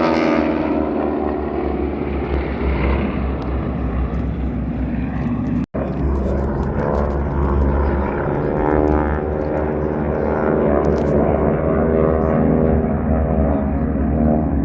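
Propeller airplane engines droning steadily overhead, a dense buzz of evenly pitched tones with a heavy low rumble. The sound cuts out for an instant a little before six seconds in.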